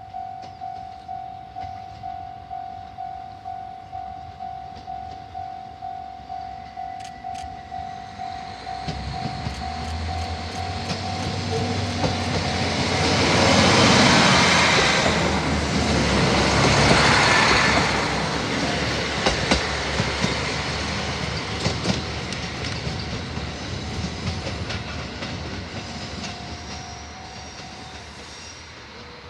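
Level-crossing warning bell ringing a steady electronic ding a little under two times a second. About 9 s in, a JR Hokkaido KiHa 40 diesel railcar approaches: its diesel engine rumbles and the running noise swells to its loudest as it passes. Sharp wheel clicks over the rail joints follow, then the train fades away while the crossing bell still rings faintly.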